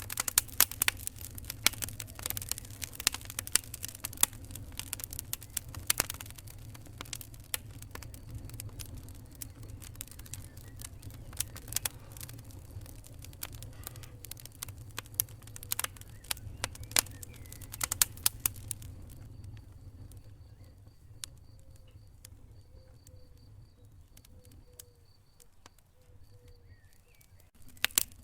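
Wood fire crackling, with frequent sharp pops over a low steady rumble. For the last several seconds the pops thin out and get quieter, then pick up again right at the end.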